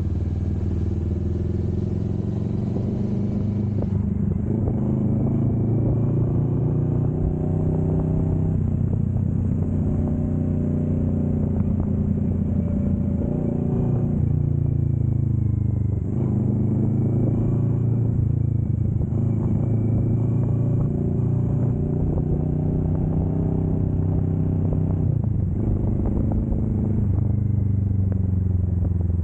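Kawasaki Vulcan S 650's parallel-twin engine running under way. Its pitch rises and falls with throttle, with sharp drops about 16 and 25 seconds in, like gear changes.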